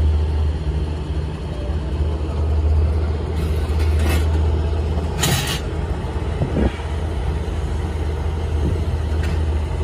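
Heavy diesel engine running steadily with a deep rumble, with two short hissing bursts, one about three and a half seconds in and a sharper one about five seconds in.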